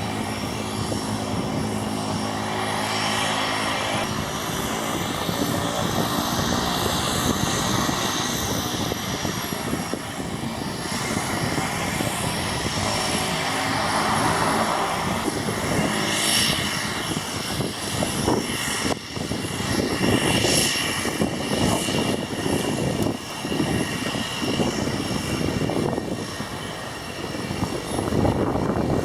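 Turboprop airplane's Pratt & Whitney PT6A turbine engine running, with propeller noise and a thin, high turbine whine that eases slightly down in pitch in the first several seconds.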